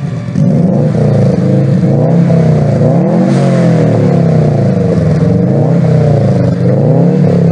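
Subaru Impreza WRX STI turbocharged flat-four, breathing through a Blitz Nur Spec R cat-back exhaust, revved again and again, the revs rising and falling in quick blips. Loud.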